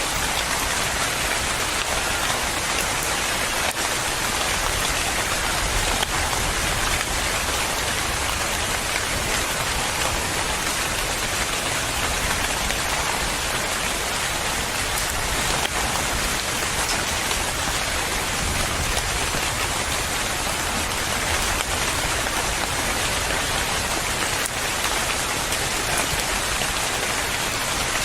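Steady rain falling, a continuous even hiss with fine patter of drops on a surface.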